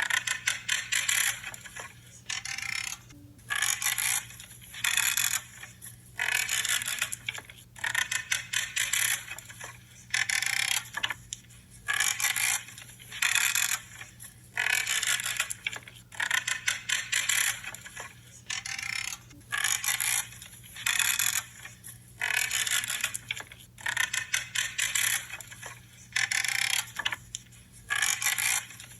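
Branches being cut one after another, each cut a short crackling, creaking crunch lasting under a second, about one a second in a steady rhythm. A faint steady low hum runs underneath.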